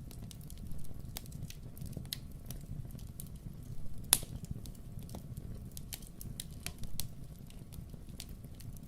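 Wood fire crackling in a fireplace: irregular sharp pops and snaps, one louder pop about four seconds in, over a steady low rumble.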